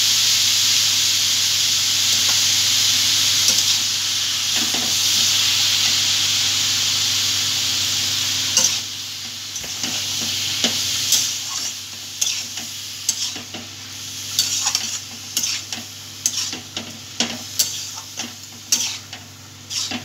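Cabbage, potato and hilsa fish heads sizzling in oil in a metal kadai as they are stir-fried with spices (the kosha stage), with a metal spatula scraping through them. About eight seconds in the sizzle drops, and from then on the spatula's repeated scrapes and clinks against the pan stand out.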